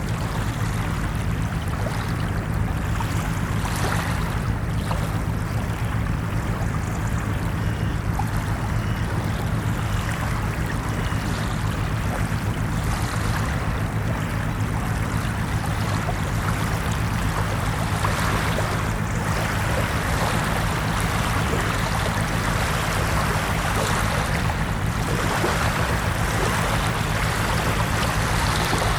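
Ocean surf: a continuous wash of waves, swelling gently now and then.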